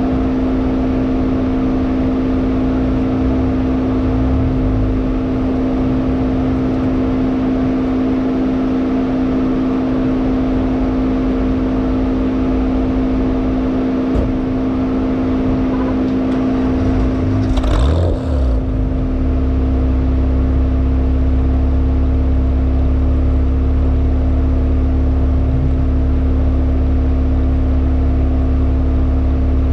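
Hyundai Elantra N's 2.0-litre turbocharged four-cylinder heard inside the cabin, running at a steady engine speed with a constant drone. Just past halfway there is a brief noisy change, after which a deep steady rumble joins the engine note.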